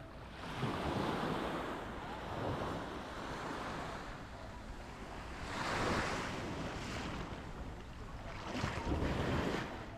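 Sea waves breaking and washing up a sandy beach, the surf swelling three times, with wind on the microphone.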